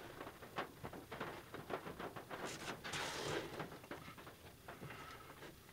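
Pieces of cardboard being handled: scattered light taps and knocks, with a rustling scrape about three seconds in.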